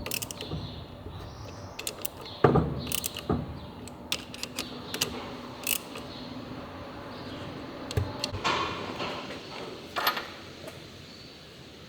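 Metal tools and engine parts being handled during an engine rebuild: scattered sharp clicks and clinks, with a heavier knock about two and a half seconds in and another around ten seconds.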